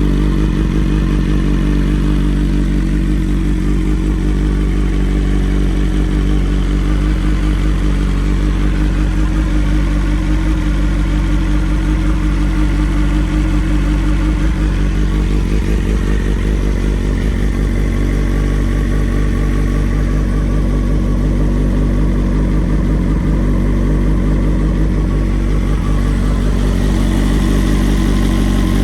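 BMW S1000XR inline-four engine idling steadily through a full Akrapovic titanium exhaust.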